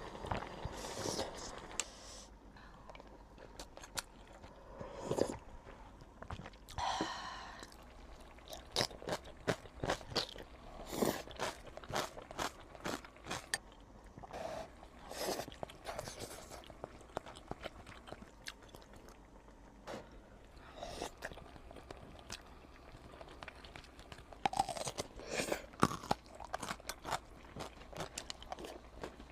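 A person eating crunchy food close to the microphone: irregular crisp crunches and bites with chewing, coming in bursts.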